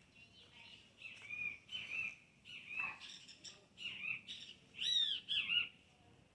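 A bird chirping: a string of short, high calls, two or three a second, with the loudest, arching notes about five seconds in.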